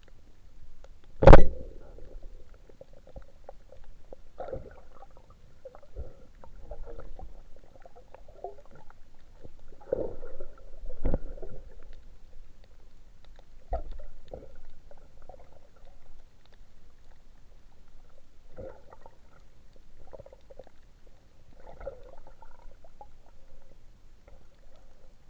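Muffled underwater gurgling and scattered soft knocks, with one sharp, loud crack about a second in.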